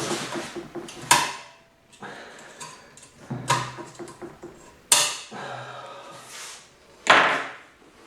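Metal transmission parts clattering and knocking as they are fitted into the gearbox, with sharp knocks about a second, five seconds and seven seconds in.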